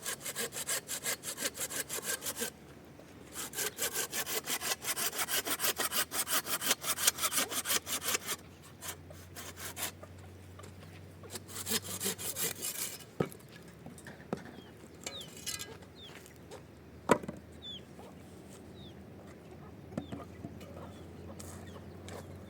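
Rhythmic back-and-forth sawing strokes, about four a second, in two long runs and two short ones. Later come scattered clicks, a single sharp knock and faint chirps.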